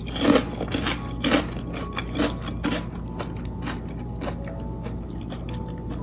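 Close-up chewing of a bite of crispy deep-fried battered fish fillet: rhythmic crunching about two chews a second, loudest in the first second or so and growing fainter.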